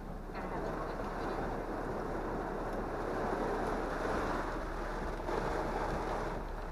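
Heavy storm rain and wind beating on a vehicle, heard from inside the cab as a steady rushing noise.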